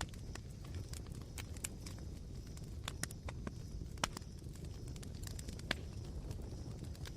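Campfire embers crackling: irregular sharp snaps and pops over a low steady rumble, the loudest pops about four and six seconds in.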